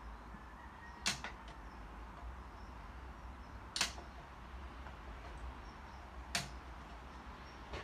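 Four sharp clicks or taps, evenly spaced about two and a half seconds apart, over a low steady hum.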